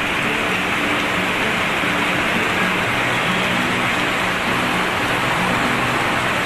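Heavy wind-driven rain pouring down in a steady, dense hiss.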